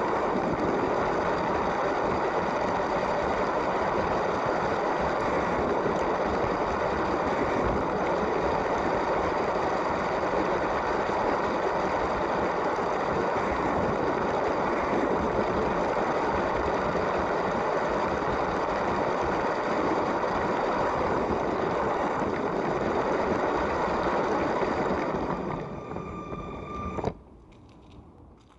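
LEGO train's small electric motor whining steadily as the train runs along the track, with a dense running rattle under it. About 25 seconds in it quietens, and it cuts off sharply a couple of seconds later.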